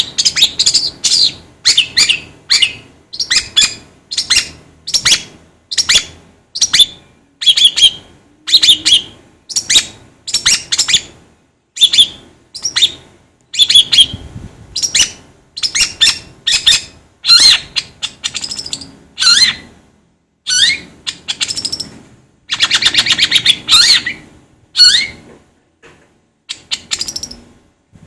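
Long-tailed shrike (cendet) calling over and over, short sharp high chattering notes about twice a second, with a longer rasping call a little after two-thirds of the way through.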